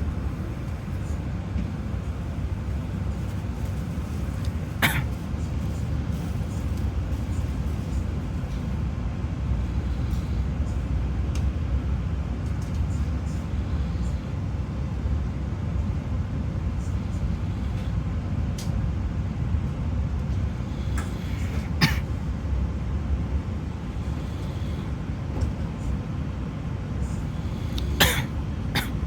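Steady low rumble of a passenger train running, heard from inside the carriage, with a few sharp knocks: one about five seconds in, one past the middle and two close together near the end.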